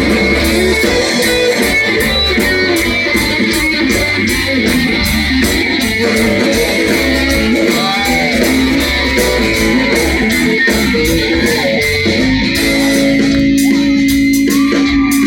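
Country band's instrumental break: an electric guitar solo with bending notes over bass and a steady drum beat, ending on a long held note.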